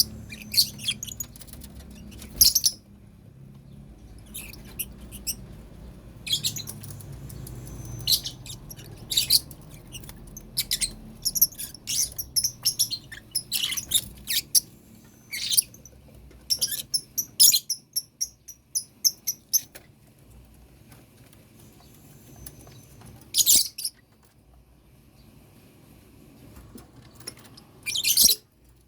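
Lovebirds chirping: many short, sharp, high chirps in quick runs, with louder calls a couple of seconds in, about three-quarters through and near the end.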